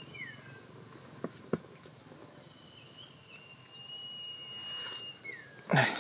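A bird's high whistled call, heard twice: a long steady note that slides down at its end. Two light taps about a second and a half in, and a louder rustling thump near the end.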